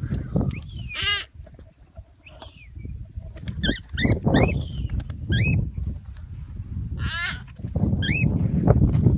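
Pet parrot squawking: a string of short, harsh calls, several rising in pitch, coming in clusters, over a low rumble.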